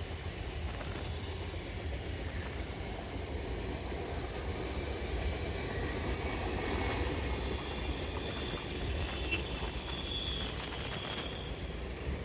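Freight cars of a CN train rolling past on the rails, with a steady high-pitched wheel squeal. About three seconds in, the squeal cuts off and the sound drops to a quieter, even rolling rumble.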